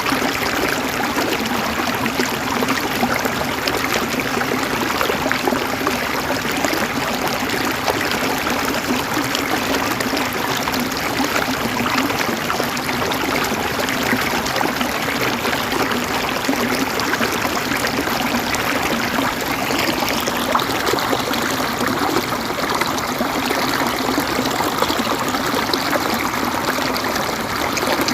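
River water flowing steadily over rocks, an even rushing with fine splashing and gurgling.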